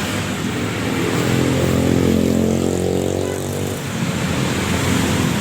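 A motor vehicle engine hums at a steady pitch, swelling about a second in and fading away near four seconds, over a constant wash of road traffic noise.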